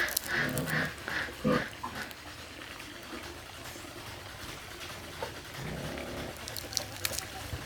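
Farm animals calling: a quick run of short calls in the first second, one stronger call shortly after, then quieter scattered sounds.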